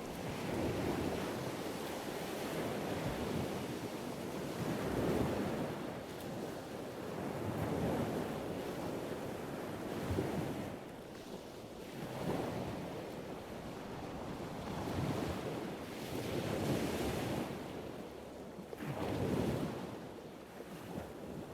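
Ocean surf: waves washing in and out in swells every two to three seconds, fading away near the end.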